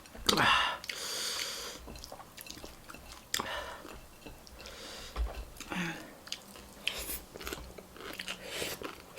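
Close-miked chewing and crunching of food, with irregular bites.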